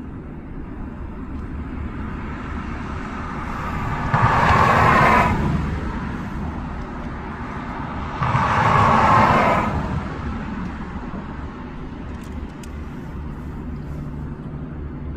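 Steady low rumble, with two vehicles passing one after the other, about four seconds apart; each rushes up and fades away over a second or so.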